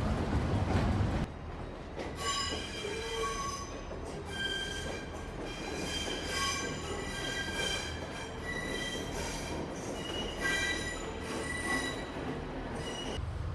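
Train wheels squealing on the rails: several high squeal tones that shift in pitch and come and go, after a low rumble that cuts off about a second in.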